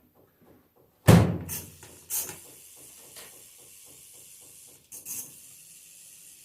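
A loud knock like a small door or lid banging shut, a few lighter knocks, then a steady high hiss that runs on. This is plausibly a homemade drying oven being closed and running while it dries alternator parts.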